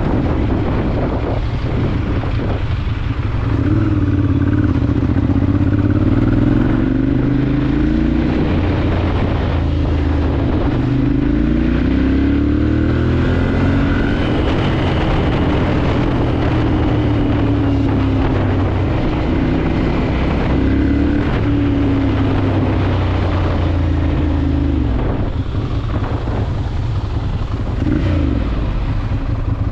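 Ducati Monster 796's air-cooled L-twin engine running under way, its note rising and falling with throttle and gear changes: it climbs sharply about ten seconds in, eases off, and drops and picks up again near the end. Wind and road rush run underneath.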